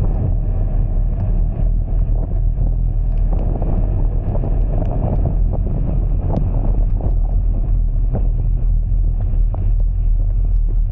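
Steady low rumble of a vehicle driving through heavy rain, with wind buffeting the microphone and scattered sharp taps.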